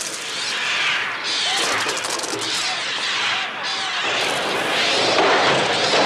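A massed flock of birds in an attack, many shrill cries gliding up and down over a dense crackling of flapping wings, growing louder about two-thirds of the way through.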